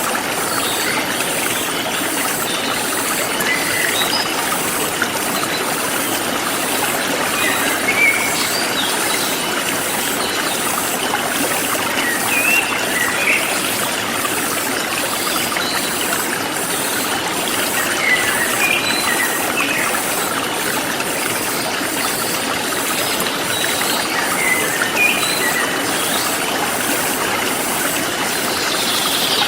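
Forest stream flowing steadily, with scattered short bird chirps and an insect chorus pulsing evenly, a few pulses a second, high above the water.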